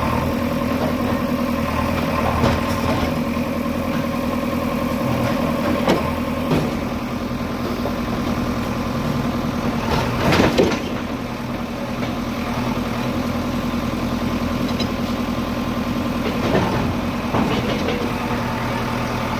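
Engine of a heavy machine running steadily, with a few sharp knocks, the loudest about ten seconds in.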